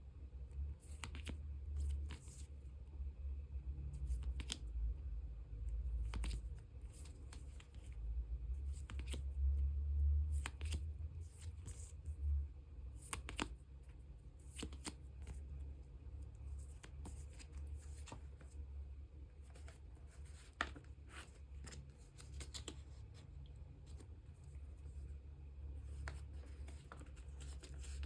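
Photocards being handled and slid into clear plastic sleeves and binder pockets: a run of light plastic rustles and sharp little clicks, irregularly spaced, over a low handling rumble.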